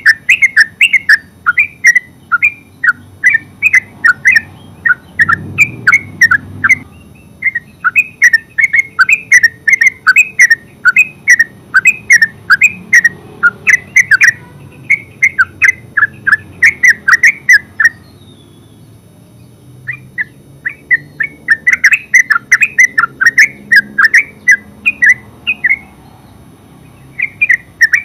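Yellow-vented bulbul giving its rapid chattering 'ngeropel' call, a long run of quick bubbly notes several a second, breaking off briefly a few times.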